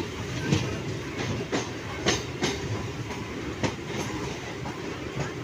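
Train running on rails: a steady rumble with sharp, unevenly spaced clicks of the wheels passing over rail joints and points, about six in a few seconds.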